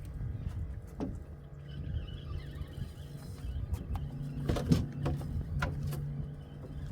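A motor hums steadily from about four seconds in over a low rumble, with a few sharp knocks and clicks.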